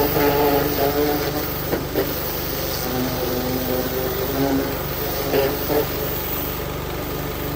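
An engine running steadily at idle, with an even low pulse.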